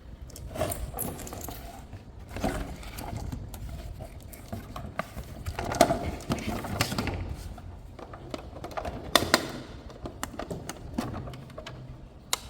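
Plastic toy parts and packaging being handled: irregular clicks, knocks and rustling, with the sharpest clicks around nine seconds in.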